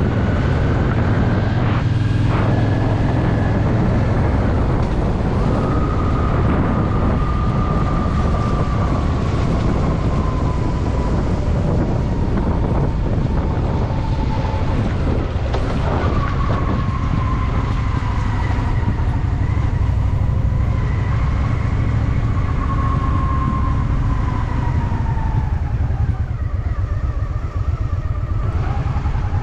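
Honda Shadow VT750's V-twin engine running under way on a motorcycle ride, its pitch slowly rising and falling with the throttle.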